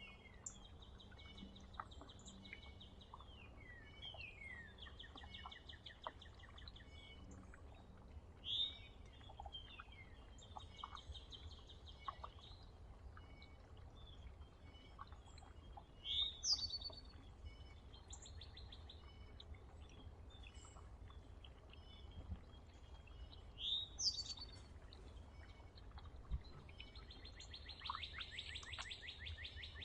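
Wild songbirds singing and calling at a feeder: several rapid, even trills, each about two seconds long, with short sharp chirps and quick down-slurred notes in between. The last trill, near the end, is the loudest.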